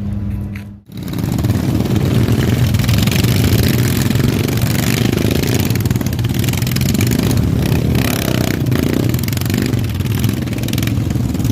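Royal Enfield motorcycles running steadily with a low, pulsing engine sound, which cuts in after a brief drop about a second in.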